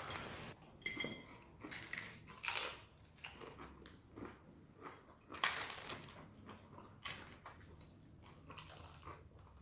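Crisp pane carasau flatbread crunching, in irregular short crackles as it is broken and bitten, the loudest about two and a half and five and a half seconds in.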